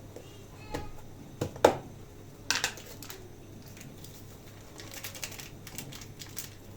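A few light clicks and knocks of objects being handled, the loudest a sharp knock about a second and a half in, then a run of quick small clicks near the end.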